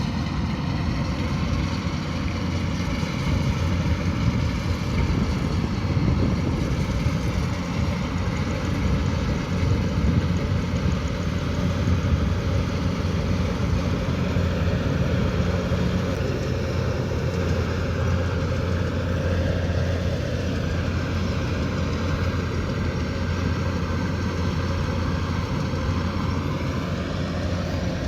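Kubota DC108X rice combine harvester's diesel engine and threshing machinery running steadily, with a couple of slight shifts in pitch toward the end.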